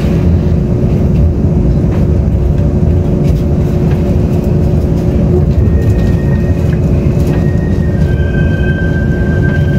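Interior running noise of a Taiwan Railways Tze-Chiang express carriage: a steady low rumble with a constant hum. Faint thin high-pitched tones come and go in the second half.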